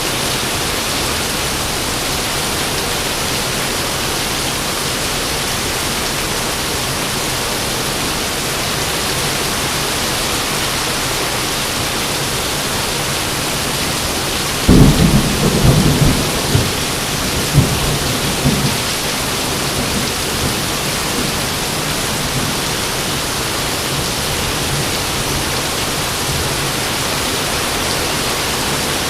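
Steady heavy rain hissing, with a sudden loud clap of thunder about halfway through that rumbles on in several cracks for around four seconds before the rain alone continues.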